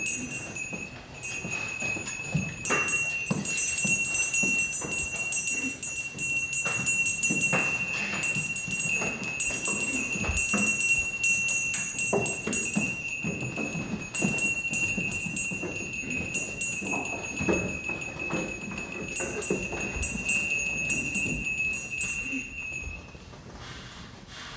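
A steady high ringing tone that stops about a second before the end, with bell-like jingling and many scattered knocks and thumps throughout, from a live stage performance.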